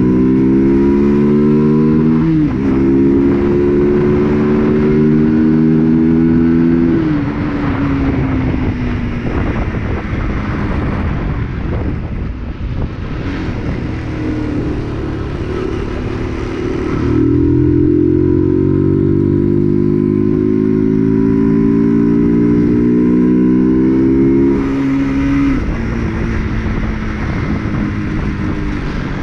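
UM RS 125 motorcycle's 125 cc engine pulling under acceleration: its note climbs steadily, then drops sharply at each gear change, about three times. Between these, a quieter, rougher stretch at lower revs.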